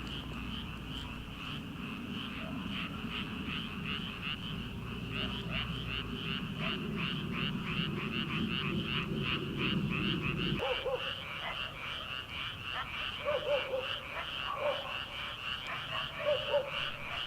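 Chorus of many frogs in a rice paddy: a dense, rapid, high-pitched pulsing trill. A low rumble under it cuts off suddenly about ten seconds in, and after that several short, lower croaks stand out.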